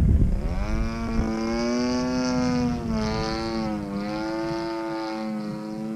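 DLE 35RA gasoline two-stroke engine of an RC Slick 540 plane running with a freshly rebuilt top end, still being run easy to break in. Its pitch climbs in the first second, dips for a moment about three seconds in, then holds steady.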